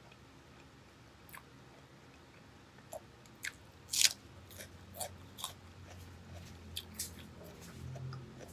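A person chewing crisp food close to the microphone: after a quiet start, irregular wet crunches and mouth clicks begin about three seconds in, the loudest about a second later.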